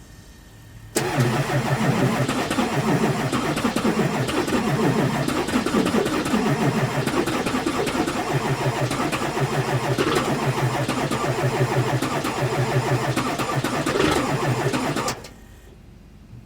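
LB7 Duramax 6.6-litre V8 turbodiesel starting from cold at −15°F and running. The sound comes in suddenly about a second in and cuts off suddenly near the end.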